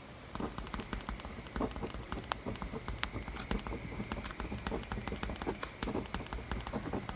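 Pencil writing on paper: quick scratches and taps in a dense, uneven run, starting about a third of a second in, over the crackle of a wood fire with a few sharp pops.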